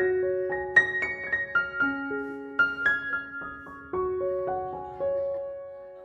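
Background piano music: a slow melody of single notes, each struck and left to ring, fading out near the end.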